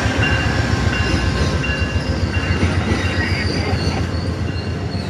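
Amtrak passenger train moving through the station: a steady low rumble of wheels on rail with thin, high squeals from the wheels above it, easing slightly toward the end.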